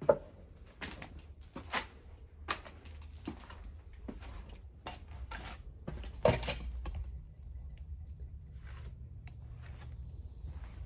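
Footsteps on a littered floor: irregular clicks and knocks, roughly one every half to one second, with a louder knock at the start and another about six seconds in. The steps thin out after about seven seconds, leaving a low steady rumble.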